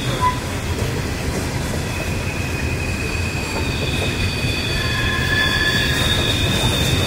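Freight train of Norfolk Southern coal hopper cars rolling past on a curve. Steel wheels on the rail give a steady low rumble, with thin, high squeals that come and go from wheels grinding against the curved rail.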